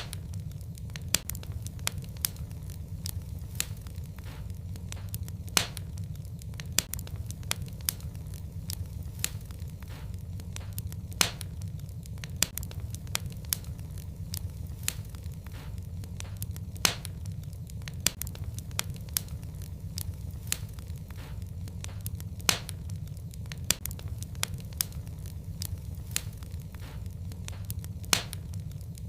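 Fireplace fire crackling: frequent small sharp pops and snaps, with a louder pop every few seconds, over a steady low rumble of the flames.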